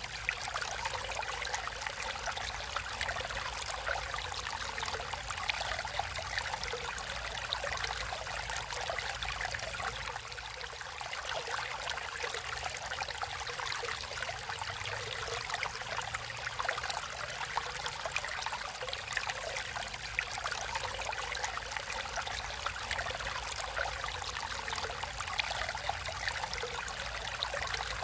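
A stream running and trickling over stones: a steady babble of water without pause.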